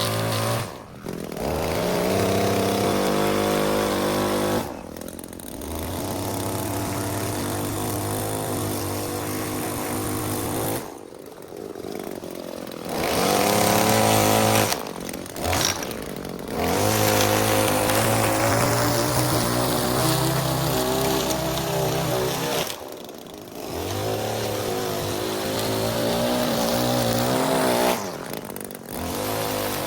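Small petrol engine of lawn-care equipment running at steady speed, cut off abruptly several times and resuming at slightly different pitches.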